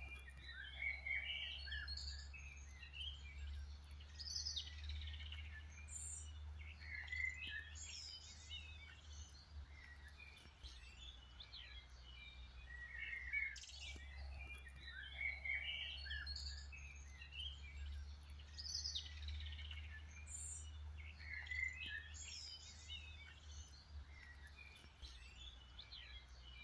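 Several songbirds chirping and singing in overlapping short calls and trills, over a steady low rumble.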